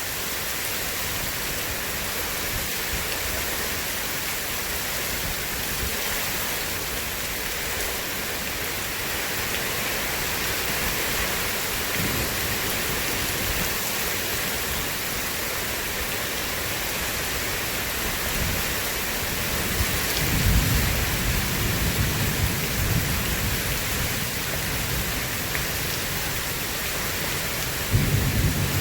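Steady heavy rain, with thunder rumbling in about two-thirds of the way through and again near the end.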